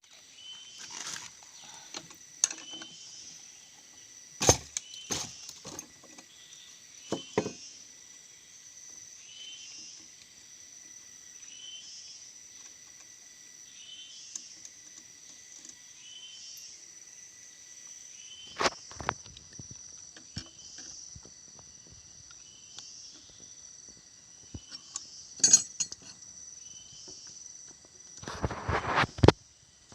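Scattered sharp clicks and knocks of things being handled, with a longer rattling burst near the end, over a steady high-pitched drone and a short chirp repeating about once a second.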